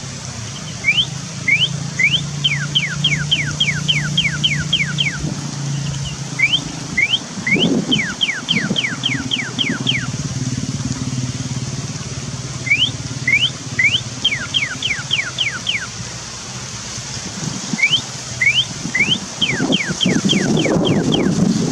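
A bird calling in four runs of about a dozen quick whistled notes, each run lasting three to four seconds, most notes sweeping down in pitch after one or two rising ones. A steady low hum runs underneath, with a louder low rumble near the end.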